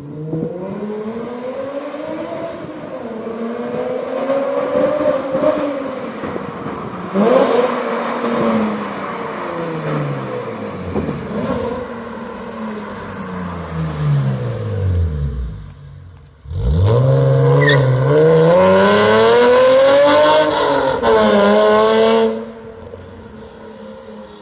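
BMW E46 coupe's straight-six engine with a catless header and straight pipes, revving and accelerating hard, its pitch rising and falling through the gears. About 15 seconds in the pitch sweeps steeply down and fades. A second, louder full-throttle pull starts abruptly about 16 seconds in and cuts off about 22 seconds in.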